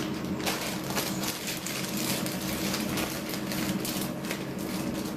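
Rapid, irregular clicking and rattling of kitchen handling, over a steady low hum.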